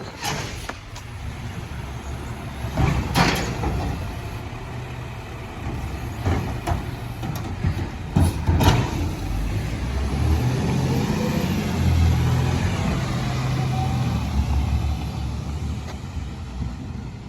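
Garbage truck engine running with a low rumble, with several loud metallic clanks about three seconds in and again around eight to nine seconds. From about ten seconds in the engine runs louder for several seconds before easing off near the end.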